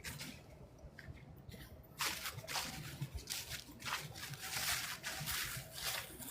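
Creek water splashing and trickling in quick, irregular bursts, louder from about two seconds in.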